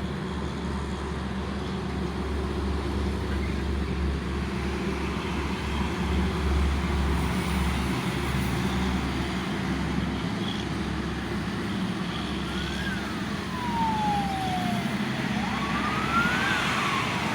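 Steady rumble of road traffic, with a siren wailing up and then slowly down twice in the second half.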